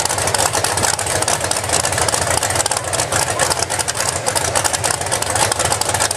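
Truck engine running steadily and loudly, with no sharp changes.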